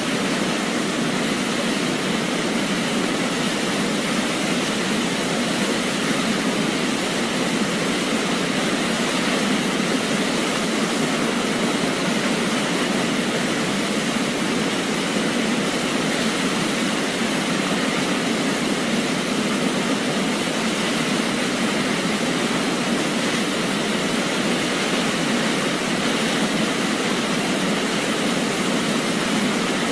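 Waterfall: a steady, unbroken rush of falling water, even and unchanging, with little deep rumble underneath.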